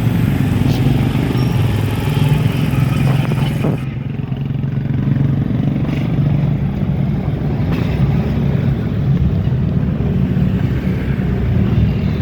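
Motorcycle engine running steadily while riding, a constant low drone with road noise.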